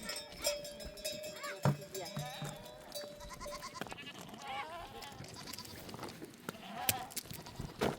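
A flock of sheep bleating, several short calls, with livestock bells clinking and ringing among them.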